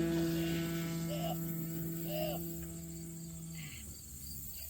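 Gas-engined RC airplane's engine droning at a steady pitch, fading away as the plane flies off after a hand launch, until it drops out about three and a half seconds in.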